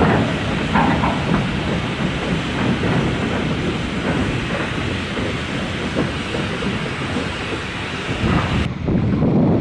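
A train running along the line, with a steady, noisy sound of wheels on rails. The sound changes abruptly near the end.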